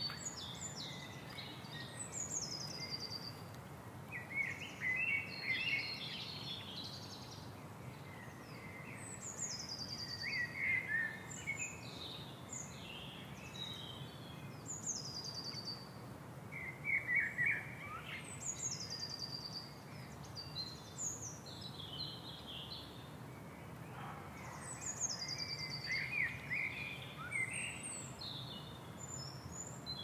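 Several birds calling: a high, falling trill repeated every six or seven seconds, among lower chirps and twitters, over a steady low background noise.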